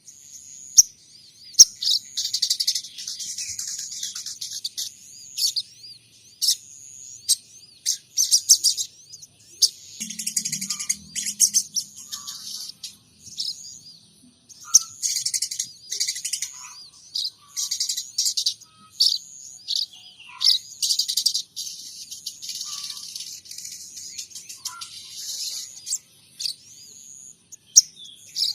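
Sogon trotol songbird singing in bursts of rapid, high chirping and twittering, each phrase lasting a second or two, with short gaps between them.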